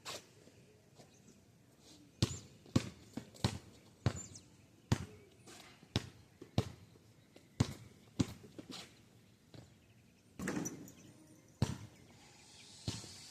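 Basketball bouncing on street pavement: about a dozen bounces at an uneven pace of one or two a second, starting about two seconds in, with a longer noisy burst about ten seconds in.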